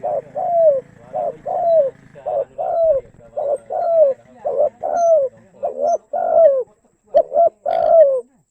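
Spotted dove (tekukur) cooing: a fast, even run of short notes, each dropping in pitch, about two a second, that stops shortly before the end.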